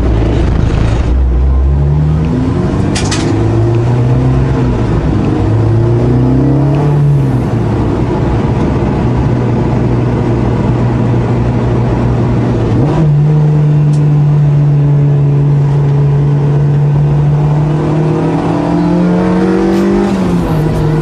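Honda Integra Type R (DC5) K20 four-cylinder engine pulling through the gears. The revs climb and drop several times with quick gear changes in the first seven seconds, then hold steady. About thirteen seconds in they jump up suddenly and hold steady again, then climb once more and drop with a gear change near the end.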